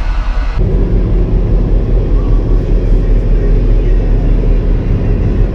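Ferry's steady low engine rumble, cutting in sharply about half a second in.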